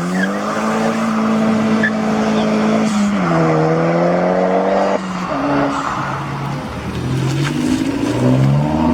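Modified car's engine accelerating hard: the revs climb and hold high, dip about three seconds in and climb again, then cut off sharply about five seconds in, followed by a few shorter bursts of revs at changing pitch.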